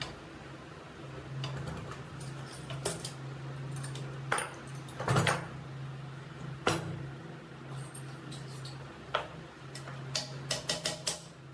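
Scattered metal clinks and knocks, with a cluster near the end, from tools and iron parts being handled while the top mechanism of a cast-iron sewing machine is fitted. A steady low hum runs underneath.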